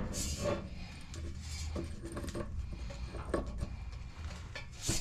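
Scattered metallic clinks and knocks of a steel driveshaft being handled and fed toward the transmission's output shaft, with a louder knock near the end.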